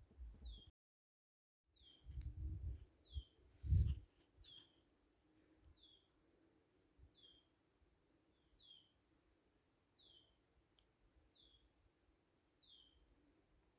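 A songbird repeating a two-note call, a short high steady note followed by a falling note, about once every second and a half. The sound cuts out completely for about a second near the start. Low muffled thumps and rumbling between about two and four seconds in are loudest just before four seconds.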